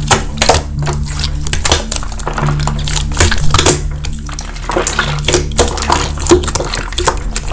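Slime being pressed and worked with the hands, giving a dense run of irregular sharp clicks and crackles, over steady background music.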